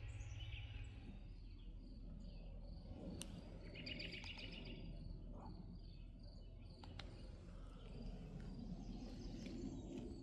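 Quiet outdoor ambience with faint bird chirping, including a short run of quick repeated chirps about four seconds in, and a few faint clicks.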